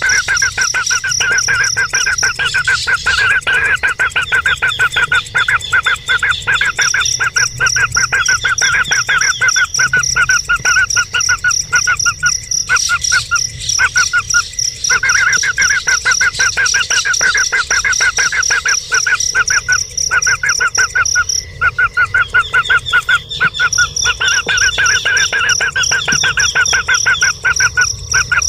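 Bird calls: fast runs of rapidly repeated notes going on continuously, with a steady high whine over them that stops and starts.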